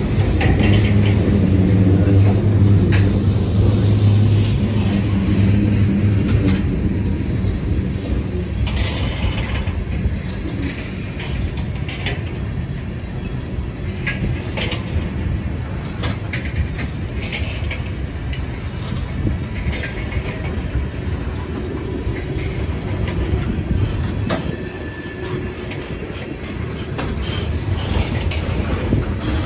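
A train rolling past. A diesel locomotive's engine drones for about the first six seconds, then the cars follow with a steady rolling noise and wheels clicking over the rail joints.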